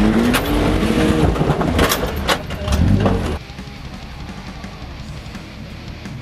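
Compact four-cylinder demolition derby car's engine revving up, heard from inside the stripped cabin, with several sharp bangs as it hits other cars. A little over halfway it drops suddenly to a quieter, steadier background.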